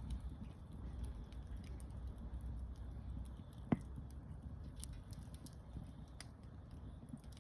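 Campfire wood crackling: scattered small snaps over a low steady rumble, with one sharper pop about halfway through.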